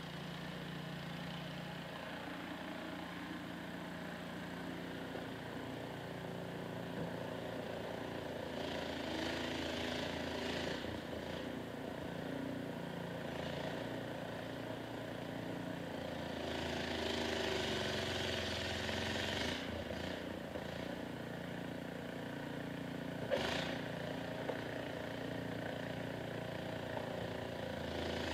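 Snowblower's small engine running steadily, its note shifting as the load changes, with stretches of hiss and one brief knock about 23 seconds in.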